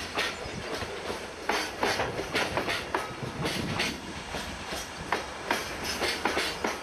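Container wagons of a freight train rolling slowly past, their wheels clacking irregularly over rail joints and pointwork as the train slows to a stop. Several sharp knocks come each second over a steady rumble.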